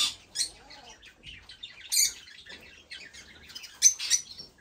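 Many small cage birds chirping at once in short, high calls, with a louder call about two seconds in and a couple more near the end.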